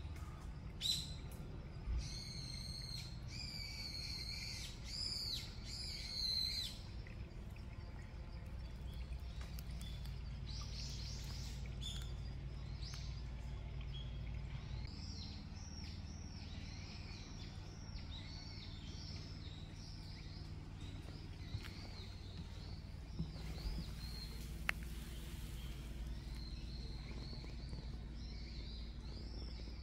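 Wild birds calling: several loud calls in the first few seconds, then steady high chirping for the rest, over a low steady rumble.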